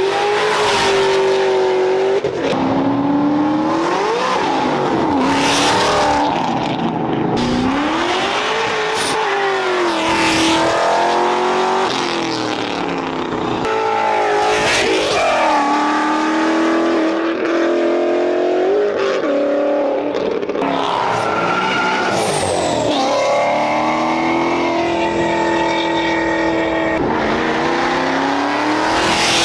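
Loud car engines revving hard, their pitch climbing and dropping again and again as the cars pull away under heavy throttle.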